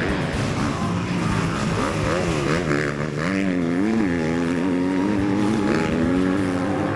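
Motocross bike engine revving hard, its pitch repeatedly climbing and dropping as the rider works the throttle and gears around the track.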